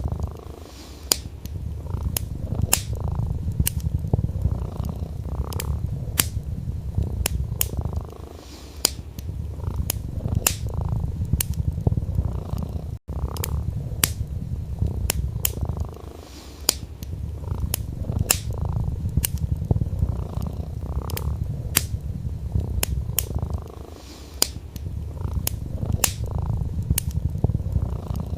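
A domestic cat purring, a steady low rumble that eases off briefly every several seconds, over a wood fire crackling with frequent sharp pops. The sound cuts out for an instant about halfway through.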